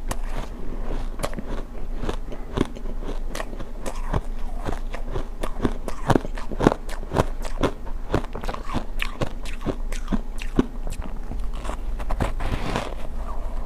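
Refrozen ice chunks dusted with matcha powder being bitten and chewed: a steady run of sharp crunches, several a second.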